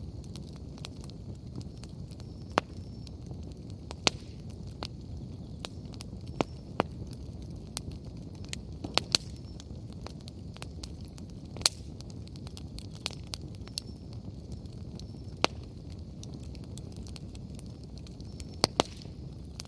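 Wood bonfire burning: a steady low rush of flame with sharp, irregular pops and crackles from the burning firewood, including two quick snaps close together near the end.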